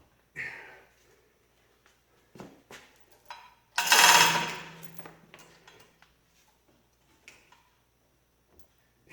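Scattered metal knocks and clanks from handling heavy engine parts. The loudest is a sharp clang about four seconds in that rings on for about two seconds.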